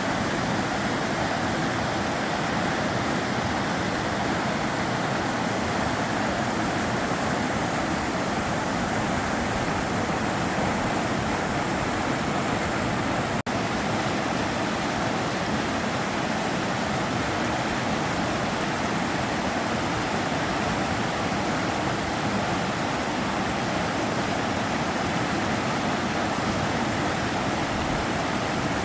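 The Sava River's water flowing steadily. A momentary dropout about halfway through.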